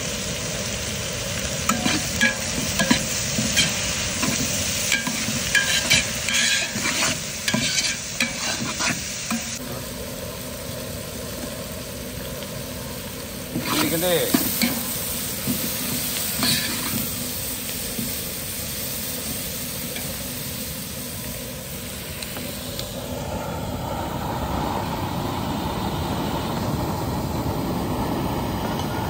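Sliced onions sizzling as they fry in a large aluminium pot, with a metal ladle scraping and clacking against the pot while stirring, busily over the first ten seconds and again briefly around fourteen seconds. From about two-thirds of the way in, the steady rushing of the gas burner flame under the pot grows louder.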